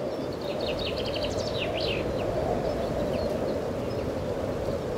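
Small birds chirping in a quick cluster of high notes during the first two seconds, over a steady rushing noise.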